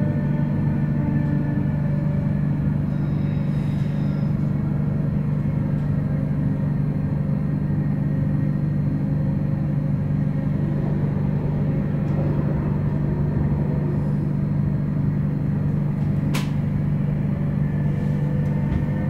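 Sm5 Stadler FLIRT electric commuter train running at speed, heard from inside the passenger cabin: a steady low rumble with fainter higher tones that fade out mid-way and come back near the end. A single sharp click about sixteen seconds in.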